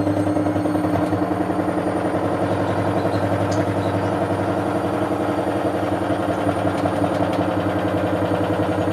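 Hotpoint Aquarius WML540 washing machine spinning at high speed. Its drum and motor give a loud, steady hum with a fast, even pulsing throughout.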